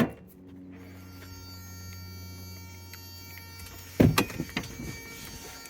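Steady electrical hum from a 1994 Toyota 4Runner with a swapped-in Mercedes turbo diesel, ignition on and the glow plug pre-heat running before a cold start, for about three and a half seconds. About four seconds in comes a loud clunk, then a few lighter knocks.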